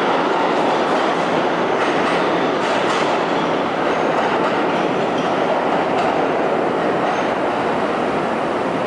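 Kawasaki R211A New York City subway cars rolling out of a station, a steady rumble of steel wheels on the rails with a few faint clicks.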